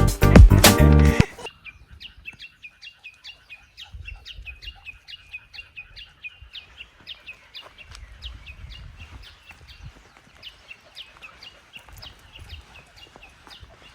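Background music that cuts off about a second in, then a bird calling in a quick, even series of short high chirps, about three a second.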